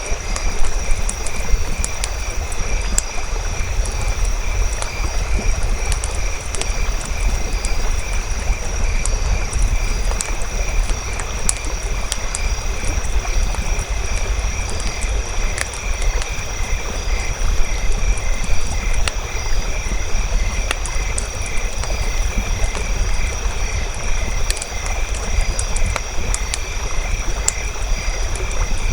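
Campfire crackling with scattered sharp pops over a low steady rumble, against a constant, evenly pulsing chorus of chirping night creatures.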